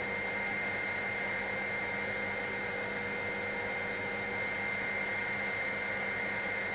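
Helicopter in flight heard from inside the cabin: a steady drone with several constant tones in it, including a high whine.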